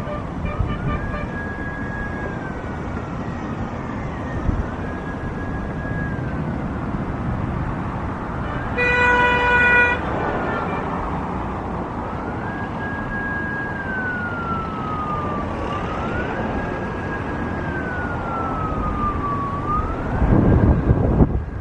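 Emergency vehicle siren wailing: it rises quickly, holds, then slides down slowly, repeating about every four seconds. About nine seconds in, a horn sounds once for about a second, and a low rumbling noise grows louder near the end.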